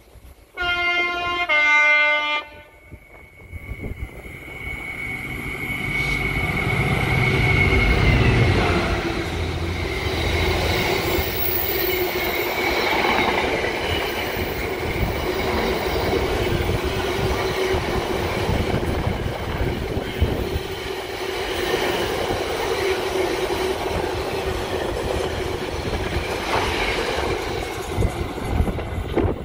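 A train sounds a two-tone horn, a short higher note then a lower one, then passes close by at speed with steady wheel and rail noise and clickety-clack over the rail joints.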